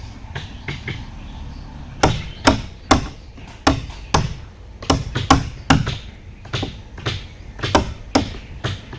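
Repeated hand-tool blows in fishing-boat building, struck irregularly at about two a second; faint for the first two seconds, then loud and sharp.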